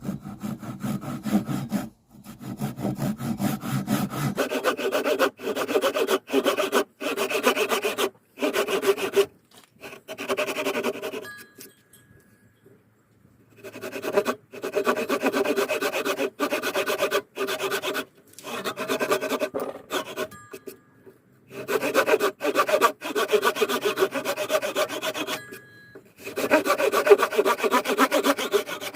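Hand saw cutting through wood in runs of quick, rasping strokes, stopping briefly between runs with one longer pause midway.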